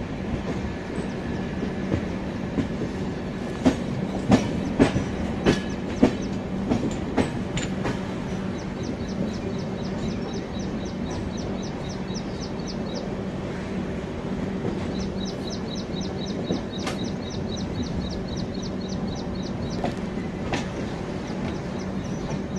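Train running along the track with a steady rumble and hum. About four to seven seconds in comes a run of loud clacks of the wheels over rail joints. In the second half a rapid high ticking, about four or five a second, comes in two spells.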